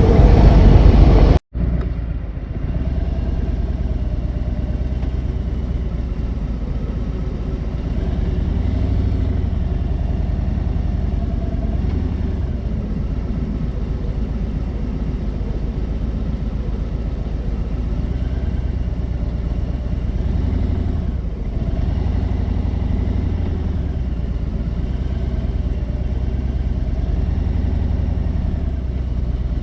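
Harley-Davidson Road King's V-twin engine running at low, steady speed, a low rumble that swells slightly a couple of times. About a second and a half in, louder sound stops abruptly and the rumble continues at a lower level.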